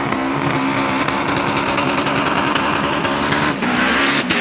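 Hill climb race car engine at the start, running hard at high revs with a nearly steady pitch and a harsh, rattly edge. Two sharp pops come near the end.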